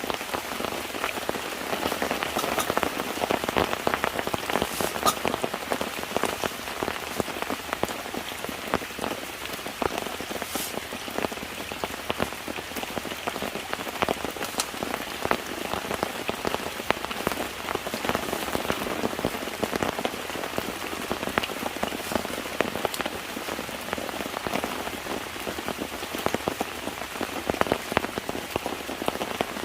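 Steady rain falling, with a dense run of close raindrop ticks.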